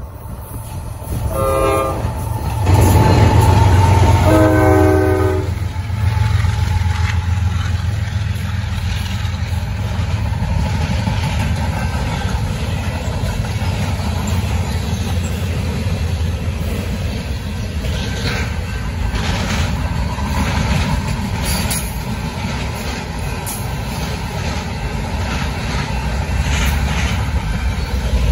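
Norfolk Southern GE Dash 9-44CW diesel locomotive sounding its horn twice, a short blast about a second in and a longer one around four to five seconds in, as it passes with a loud, low diesel rumble. Then the freight cars roll by: a steady rumble of wheels on rail with scattered clicks.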